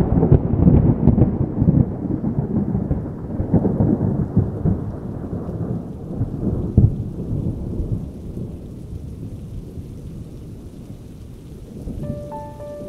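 A thunderclap rolling and rumbling, with crackles, fading over several seconds into steady rain.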